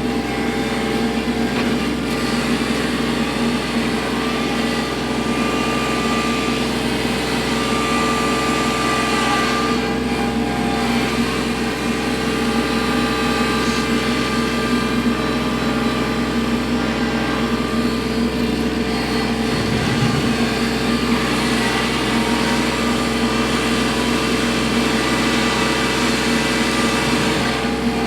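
Kubota L3301 tractor's three-cylinder diesel engine running steadily at a constant speed.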